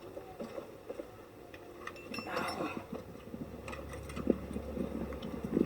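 Faint scattered clicks, taps and rubbing of hand work around a car battery, with a low steady hum for about two seconds in the middle.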